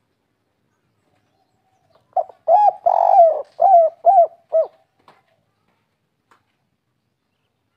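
Spotted dove (derkuku) giving one cooing phrase of the 'kuk 3' type: a short note, two longer coos, then three short clipped notes to finish. The phrase starts about two seconds in and ends just before the five-second mark.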